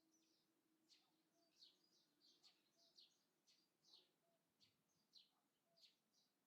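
Small birds chirping faintly: short, quick descending calls, about two a second, keep coming through the whole stretch. A faint steady low hum lies underneath and fades out about halfway.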